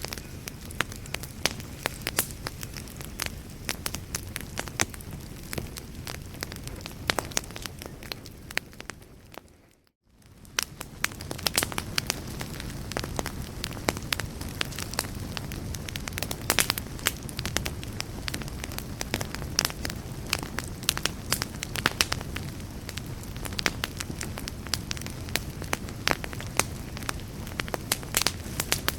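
Wood fire in a fireplace crackling, with many sharp pops and snaps over a steady low rumble of flame. About ten seconds in, the sound fades briefly to near silence and then fades back in.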